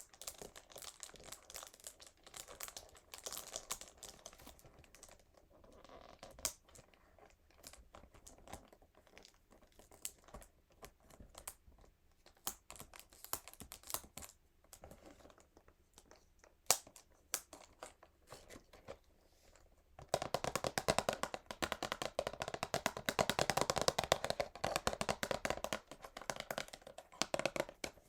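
Fingernails crinkling and scratching the plastic wrap on a cardboard perfume box, with scattered sharp taps. About twenty seconds in it turns louder into fast, continuous nail tapping and scratching on the box.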